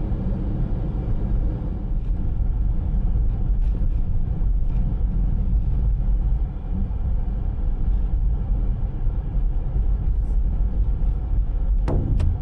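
Steady low rumble of a vehicle in motion, with two sharp clicks near the end.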